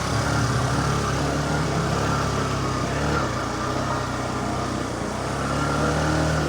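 Motorcycle engine running under way as it is ridden, its note shifting about three seconds in and again near the end.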